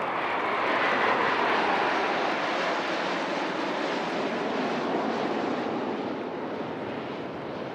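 A formation of military jets flying past. The jet rush peaks about a second in, its pitch sliding downward as the aircraft pass, then slowly fades.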